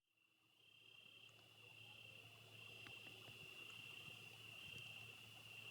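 Faint chorus of insects trilling steadily at a high pitch, fading in over the first second, with a faint low hum beneath.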